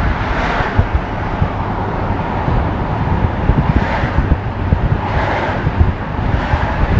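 Wind buffeting the microphone: a steady, loud rumbling noise that swells a few times.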